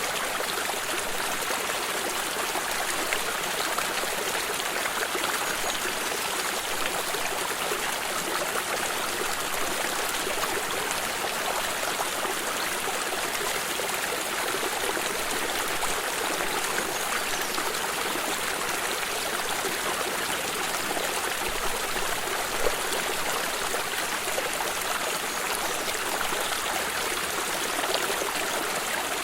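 Shallow stream of water running and trickling over stones, a steady even rush without pause.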